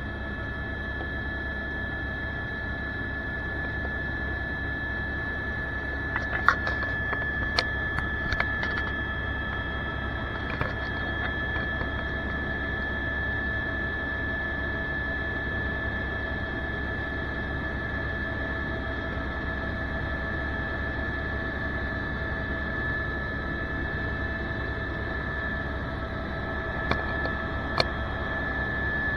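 Helicopter cabin noise: a steady engine and rotor drone with a constant high whine, and a few sharp clicks about six to nine seconds in and again near the end.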